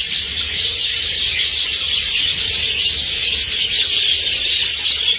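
A large flock of budgerigars chattering together: a dense, continuous scratchy warble of many overlapping high chirps.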